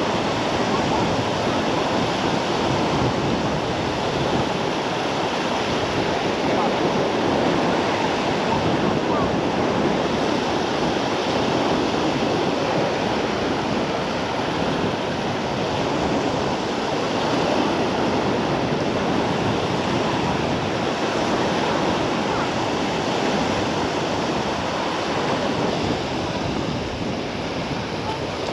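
Steady wash of sea waves on a sandy beach.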